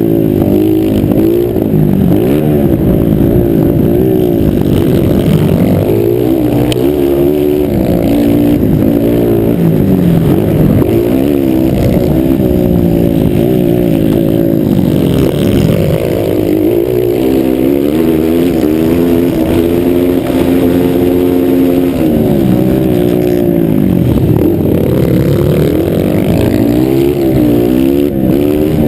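Several motocross motorcycle engines revving hard, their pitch rising and falling again and again as the throttles open and close.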